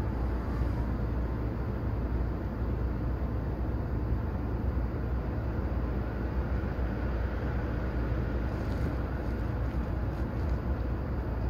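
Steady low rumble heard inside the passenger car of an electric commuter train, with no sudden sounds.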